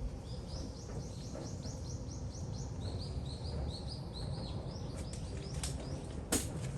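A bird calling in a rapid series of short chirps, about four a second, the run stepping down in pitch partway through, over a steady low rumble. A single sharp knock near the end.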